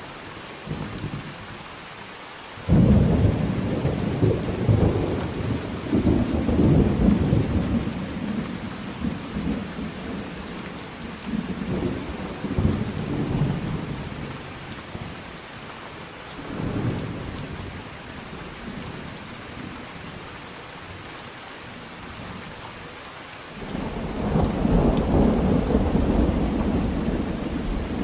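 Thunderstorm: steady rain falling, with rolling thunder that breaks in suddenly about three seconds in and rumbles on for some ten seconds, a shorter roll a few seconds later, and another rumble building near the end.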